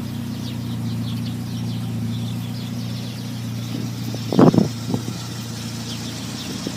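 Car engine idling steadily, with a short, louder burst about four and a half seconds in and a smaller one just after.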